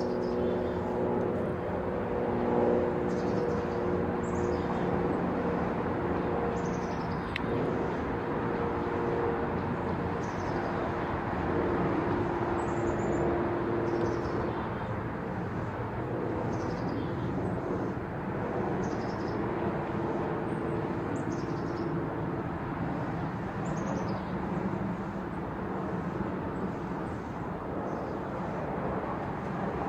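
Steady city traffic noise, with a vehicle engine humming through the first half. Faint, short, high falling bird chirps sound every couple of seconds.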